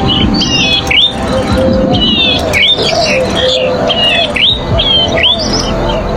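A small cisticolid warbler, the bird known locally as cici padi or prenjak sawah, calling over and over in quick runs of short, sharp chirps, several a second.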